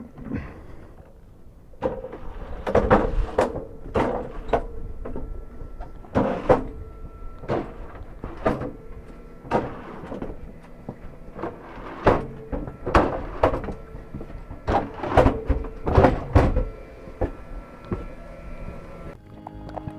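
A run of hard knocks and clunks, roughly one a second and uneven, over a faint steady hum.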